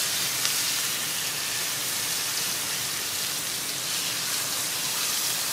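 Catfish fillets frying in butter in a hot cast-iron skillet: a steady sizzle.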